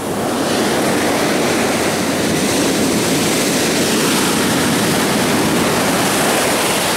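Ocean wave breaking, then a steady rush of surf and water washing in for several seconds, easing off near the end.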